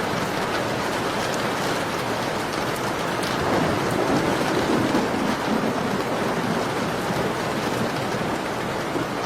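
Steady rain falling, with a deeper swell that rises and fades from about three and a half to six seconds in, and faint ticks of a crackling fire.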